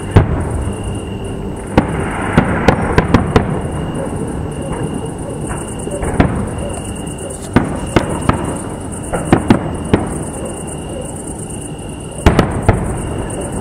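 Fireworks display: aerial shells burst in a series of sharp bangs, several coming in quick clusters of three to five, over a continuous low rumble.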